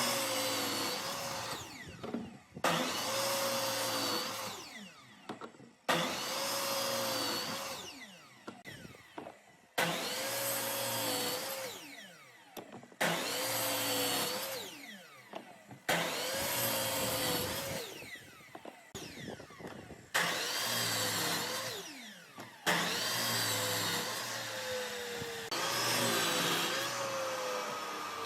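Handheld electric power tool worked on wood in short runs about every three seconds: each run starts abruptly with a steady whine, then the motor winds down with a falling pitch before the next start.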